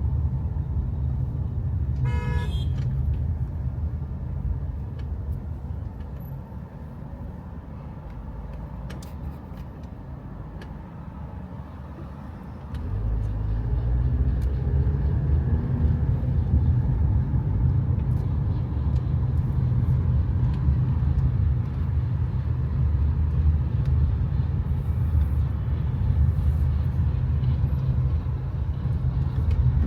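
A vehicle horn beeps once, briefly, about two seconds in, over a steady low rumble of road traffic. The rumble fades for several seconds and comes back louder about thirteen seconds in.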